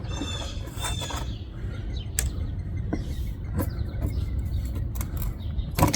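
Putty knife scraping and prying at old window adhesive, with scattered sharp clicks and knocks; the loudest knock comes near the end. Birds chirp faintly early on.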